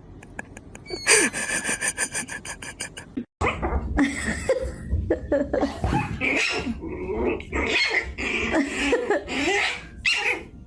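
A fast, even, pitched pulsing lasting about two seconds. After a brief break, a dog vocalizes in a run of pitched sounds that rise and fall.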